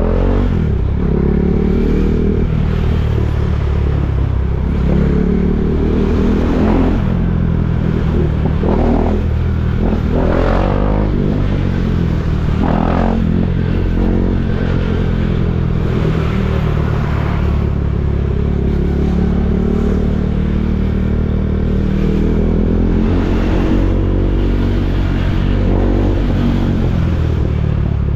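KTM Duke 390's single-cylinder engine running at low speed, rising and falling in pitch a few times between about nine and thirteen seconds in as the throttle is worked.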